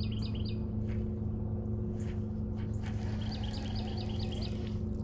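A songbird sings a quick run of repeated chirping notes, once at the very start and again about three seconds in, over a steady low hum that is the loudest sound throughout.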